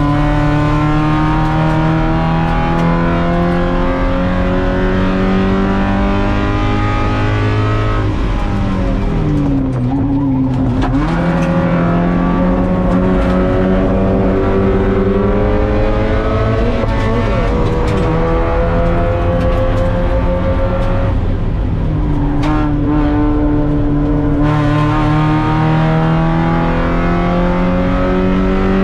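Spec Miata's four-cylinder engine at race pace, heard from inside the cockpit, its pitch climbing as it accelerates. About eight seconds in the pitch falls and wavers as the car slows for a corner, then climbs again; it drops once more a little past twenty seconds in before rising again.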